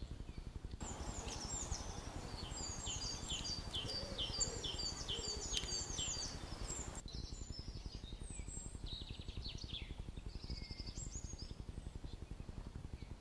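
Wild birds singing: a quick run of repeated chirping notes for several seconds, then scattered calls, over a steady low outdoor rumble.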